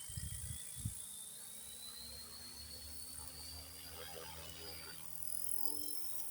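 Electric Goblin 380 RC helicopter's motor and rotor head spooling up: a thin whine rising slowly in pitch, with a couple of low thumps in the first second.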